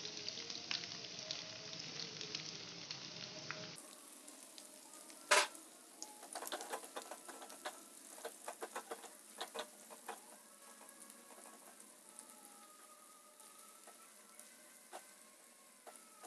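Dried anchovies deep-frying in hot oil, sizzling and crackling as they are stirred with a plastic spatula, frying until dry and crisp. A sharp knock about five seconds in, and the sizzle thins out over the second half.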